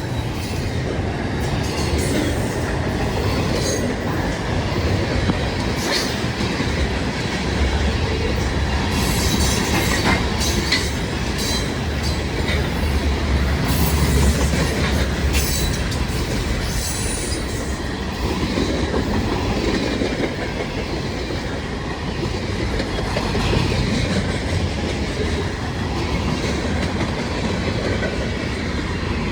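CSX freight train's cars rolling past steadily, wheels clacking over the rail joints, with a run of sharp high-pitched clicks and squeaks from the wheels through the middle stretch.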